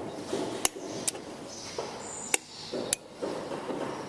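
Four sharp, short clicks over a low background rumble.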